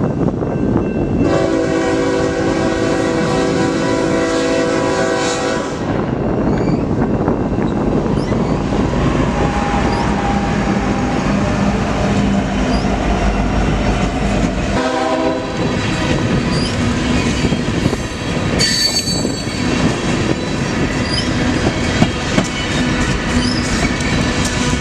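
Freight train passing close by and sounding its air horn: a long chord-like blast about a second in, lasting about four and a half seconds, then a short blast about fifteen seconds in, over the steady rumble of the train going by.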